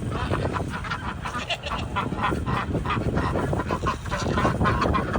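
Farm poultry calling over and over in short honking calls, over a low steady rumble.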